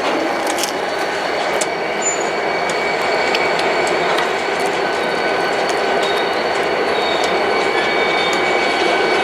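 Train cars rolling past on the rails: steady wheel-and-rail noise with thin, high, steady squeal tones from the wheels and scattered sharp clicks.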